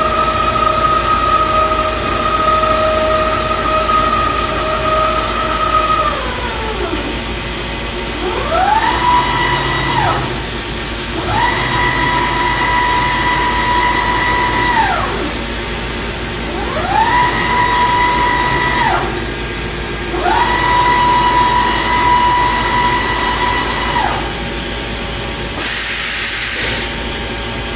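Morbidelli Universal NB 3615 CNC router's motors whining as the machine runs: a steady whine that glides down in pitch after about six seconds, then four times over a whine that rises quickly, holds for a few seconds and falls away. A short hiss comes near the end.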